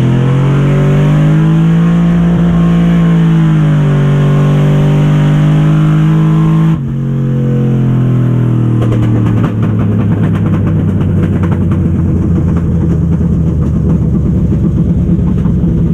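Drag-race truck's engine pulling hard at full throttle down the track, holding a high, steady note that swells slightly. About seven seconds in it cuts off abruptly, and a lower, rougher engine sound continues.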